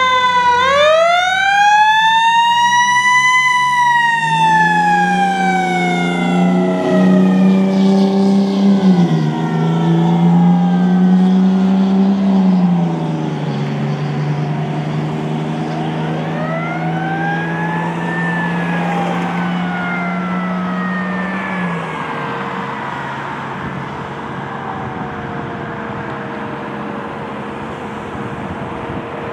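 Fire truck siren wailing, climbing at the start and then falling slowly, over a heavy truck engine revving up and dropping back several times as it shifts through the gears. A second, fainter siren wail rises and falls midway, and the sound grows quieter as the apparatus pulls away.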